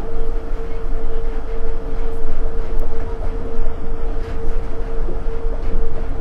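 Onboard running noise of a Nippori-Toneri Liner 330-series rubber-tyred automated guideway train cruising between stations: a steady low rumble and tyre noise, with a constant whine held at one pitch.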